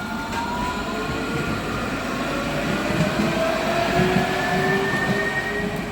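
Electric tram running past, its traction motors whining in several tones that climb slowly in pitch as it accelerates, over the rumble of wheels on rail.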